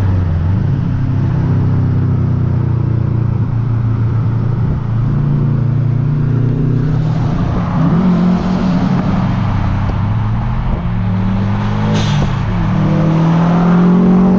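Cars driving at highway speed: a steady engine and exhaust drone over tyre and wind noise, rising in pitch twice as they accelerate.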